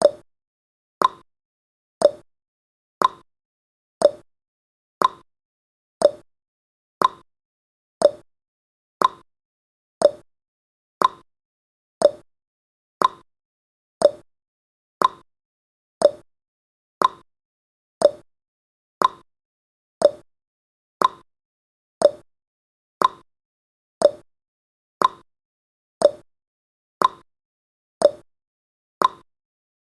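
Countdown timer's clock-tick sound effect, one short, sharp tick each second with silence in between.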